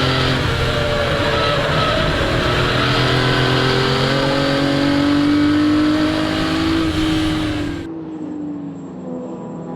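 Ferrari 250 GT SWB's Colombo V12 running hard under acceleration, its pitch climbing steadily. Near the end it eases off, the pitch falls, and the sound turns quieter and duller.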